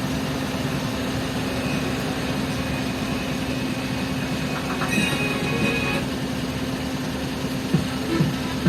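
Steady running rumble of the Suzuki DA17V's idling engine heard from inside the cabin, with music from the car stereo coming in near the end as it is tested.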